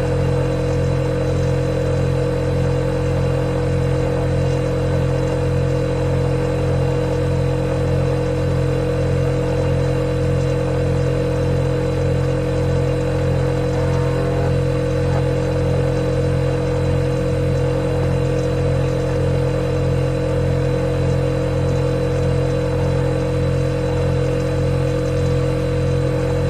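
Refrigerator compressor running with a steady low hum, a clear mid tone and a faint high whine above it.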